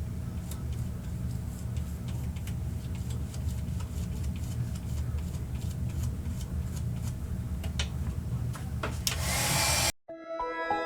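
Steady low hum with scattered light clicks and taps of crafting supplies being handled, and a short burst of hiss about nine seconds in. The sound then cuts out and soft background music starts.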